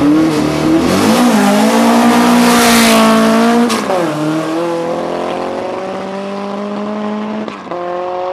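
Air-cooled VW Beetle drag car accelerating hard from the line at full throttle, the engine climbing in pitch and dropping sharply at upshifts about four and seven and a half seconds in. It grows quieter as the car pulls away.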